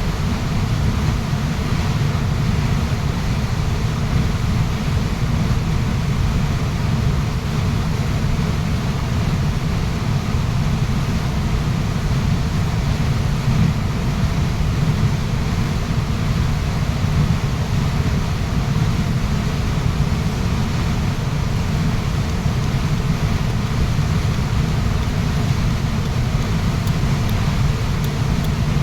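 Waterfall rushing steadily, a constant deep rumble of falling water with a thinner hiss above it.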